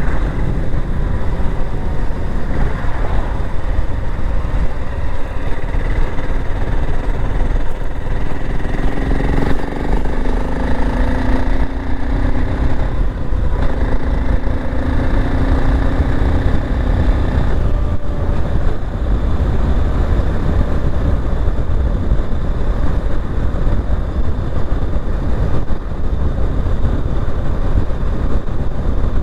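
BSA Gold Star 650's single-cylinder engine running under way, heard from on the bike over heavy wind rumble on the microphone. Partway through, the engine note rises in pitch twice with a short break between, as the bike accelerates.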